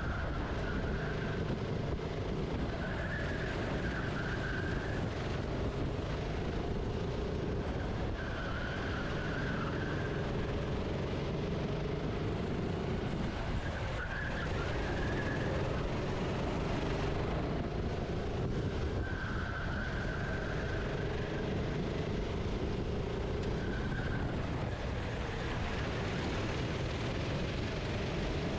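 Onboard sound of a racing kart's engine at speed, the revs rising and falling every few seconds through the corners, over a steady rushing noise.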